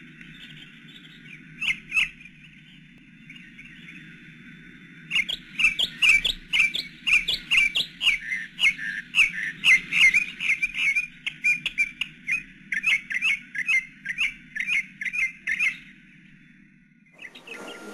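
A bird chirping in quick repeated calls, about three a second, over a steady hiss and low hum. Two chirps come about two seconds in, then a long run from about five seconds in that stops near sixteen seconds.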